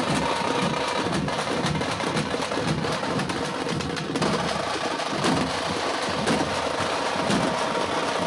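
Tamate frame drums beaten with sticks, a troupe playing a fast, dense, steady rhythm.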